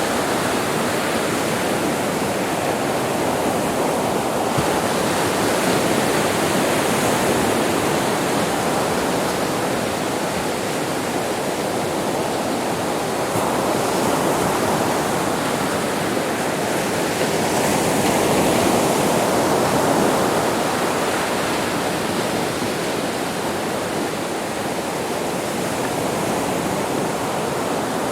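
Sea waves breaking and washing on a beach: a continuous rushing surf with slow, gentle swells in loudness as successive waves come in.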